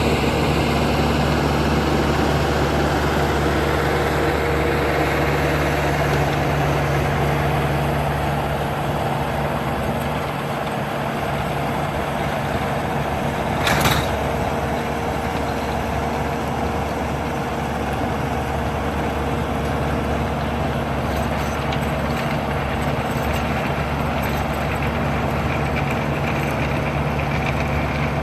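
Tractor engine running steadily while tilling, with a sharp knock about halfway through.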